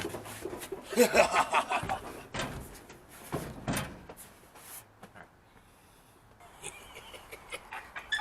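A person laughing in short bursts, with a few faint knocks.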